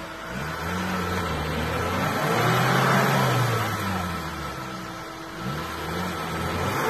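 Off-road vehicle's engine revving up and falling back, about three times.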